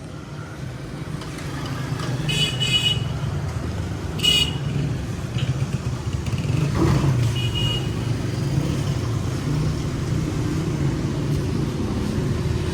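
Street traffic with a car engine running, and short vehicle-horn toots about two, four and seven seconds in.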